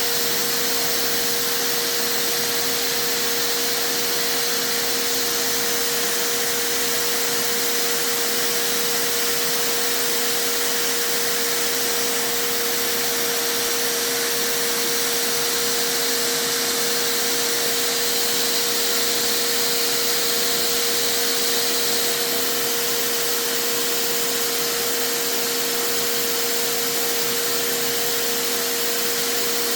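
Vacuum cleaner motor running steadily, a constant whine over loud rushing air, blowing into a motorcycle exhaust to pressurize it for a soap-bubble leak test.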